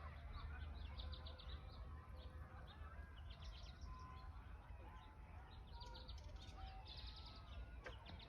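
Several birds chirping and calling, with quick trills of high chirps repeated several times, over a faint steady low rumble.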